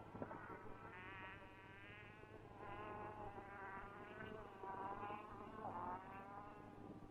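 A flying insect buzzing close to the microphone, its pitch wavering up and down as it moves about.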